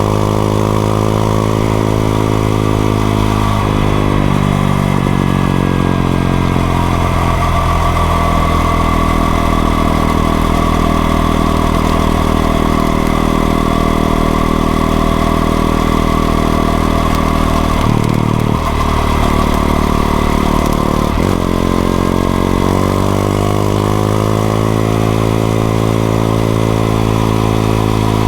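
Honda XRE 190's single-cylinder engine running while riding. The revs drop about four seconds in and hold steady for a long stretch. There is a short break in the engine note near eighteen seconds, and the revs climb again after about twenty-one seconds.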